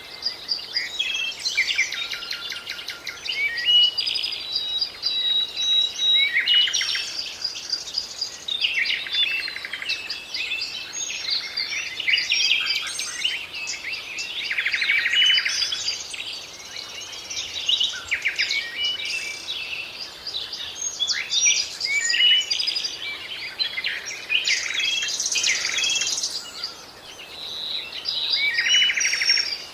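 Several songbirds singing and calling at once: a dense chorus of chirps, rapid trills and short whistles.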